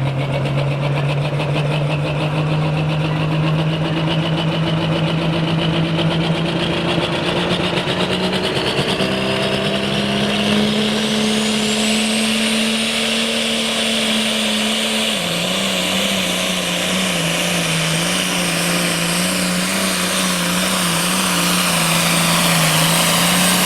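Super stock pulling tractor's engine running hard under load while pulling the sled, its note climbing. About halfway through a high whine climbs steeply in pitch and then holds. Later the engine note drops and wavers until the sound cuts off abruptly.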